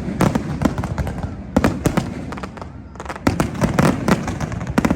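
Fireworks display: rapid volleys of sharp bangs and crackles in dense clusters, easing briefly a little before the middle, then picking up again.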